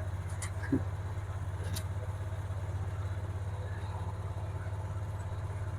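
A vehicle's engine running steadily with an even low hum, heard from on board while it is being driven. A small knock sounds about a second in.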